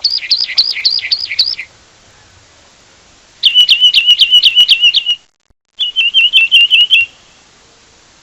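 Wren singing: three quick bouts of rapid repeated high notes, the later two a fast, even trill.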